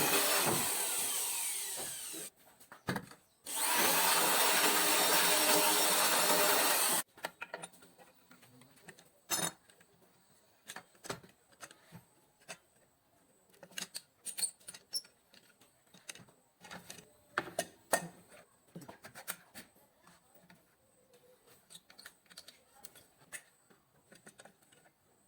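A mini electric wood saw with a small alloy circular blade runs loud for about seven seconds, drops out for about a second after the first two, then stops abruptly. After that come scattered light knocks and taps.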